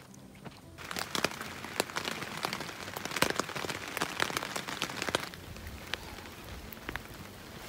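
Heavy rain hitting a tent's fabric fly, heard from inside the tent: a dense spatter of sharp drop hits starting about a second in. After about five seconds it gives way to a softer, steady rain hiss.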